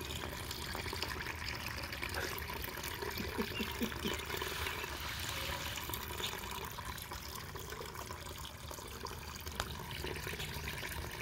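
Rain falling steadily on a small rock-edged garden pond and the stones around it: an even, watery hiss with small drop ticks.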